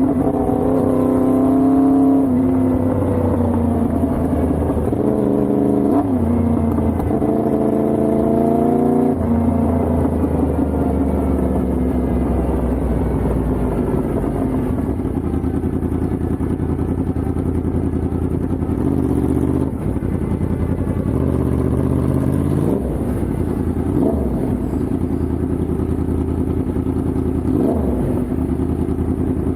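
Yamaha MT-10's crossplane inline-four engine under way, its pitch climbing and dropping back several times through gear changes in the first ten seconds, then running at a steadier, lower pitch with a few brief blips.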